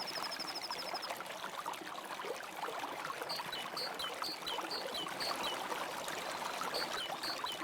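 Stream water running and trickling, with a bird giving a quick high trill in the first second and then a string of short, high chirps, each dropping at the end, repeated about twice a second.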